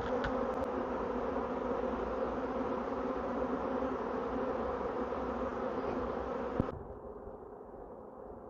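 A swarm of honeybees buzzing steadily in a dense mass of wingbeats as they settle. The buzz cuts off abruptly about two-thirds of the way through, leaving only a faint dull hum.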